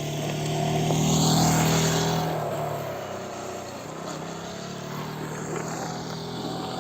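Motorcycle engine running as the bike circles past, loudest about a second and a half in and then fading, before coming round again near the end.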